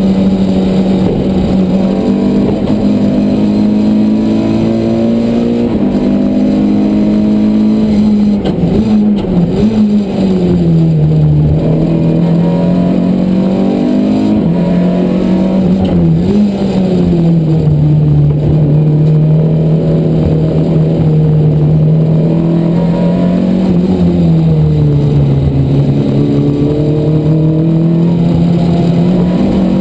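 Renault Clio race car's four-cylinder engine heard from inside the cockpit, running hard at high revs on a racing lap. Its note falls as the car slows for corners about ten seconds in and again near the end, then climbs back up.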